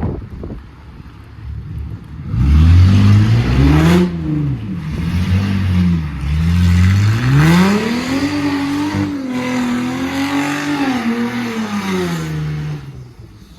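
Car engine revving hard during a burnout, with a loud hiss over it. It starts about two seconds in, climbs in pitch and drops back, then climbs again, holds high for several seconds and falls away near the end.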